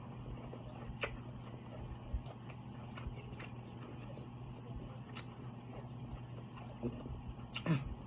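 Close-up eating sounds of a seafood boil: scattered small wet mouth clicks and lip smacks over a steady low hum, with a short 'mm' hum from the eater near the end.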